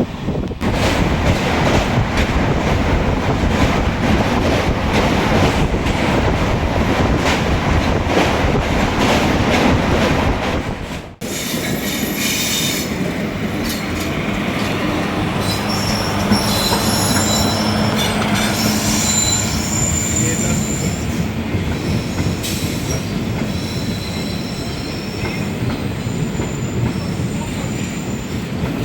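Passenger train running on the rails with a dense rattling clatter. After a sudden break about eleven seconds in, the running goes on, with high thin wheel squeals coming and going.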